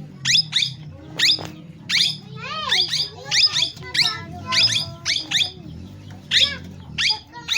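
Pet parrot giving short, sharp, high-pitched calls, about two a second at irregular spacing, with a run of wavering, gliding notes a little before the middle.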